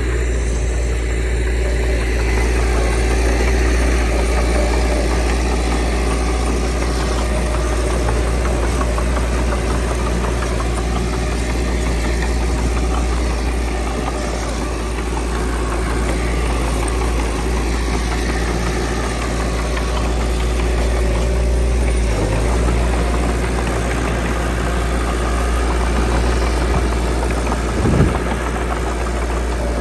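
Diesel engine of earthmoving machinery (bulldozer or dump truck) running steadily, with a single thump near the end.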